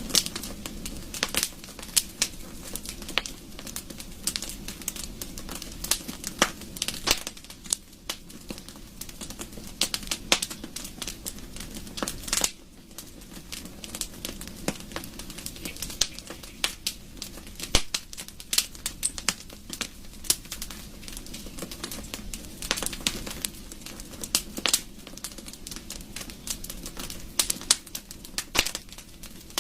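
Wood fire burning in a fireplace: irregular sharp pops and snaps of burning wood over a low, steady rush of flame.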